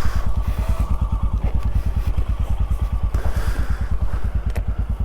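Motorcycle engine idling with a steady, rapid, even beat, with a brief click near the end.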